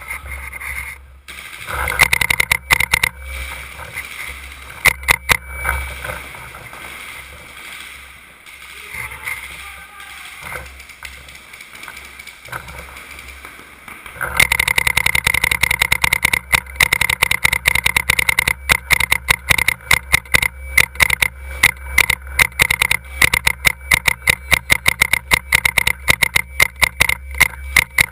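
Paintball markers firing: scattered shots at first, then rapid, near-continuous shooting from about halfway through.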